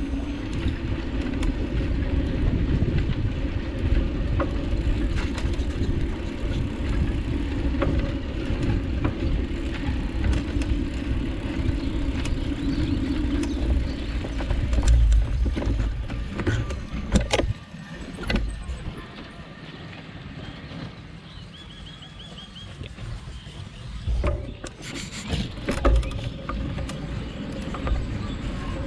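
Wind buffeting the microphone and road rumble while riding a bike along a road, with scattered rattling clicks. About two-thirds of the way through the rumble drops away, leaving quieter road noise with a few sharp clicks and knocks.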